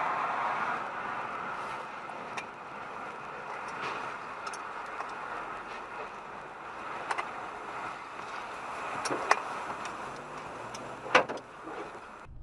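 Steady road noise of a moving car picked up by a dash camera's microphone, with a few sharp clicks or knocks, the loudest about eleven seconds in.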